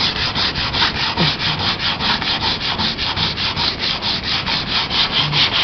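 Sandpaper rubbed rapidly back and forth by hand over a fiberglass sailboat hull, about five strokes a second. It is sanding out spider-web cracks in the gelcoat.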